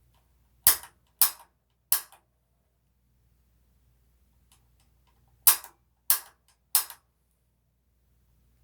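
Piezo spark igniter on a Honeywell gas water-heater control snapping: three sharp clicks about half a second apart, a pause of about three seconds, then three more, as the pilot is tried and does not yet light.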